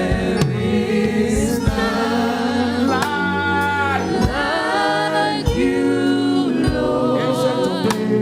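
Gospel worship music: voices singing a slow praise song over a band with bass and drums.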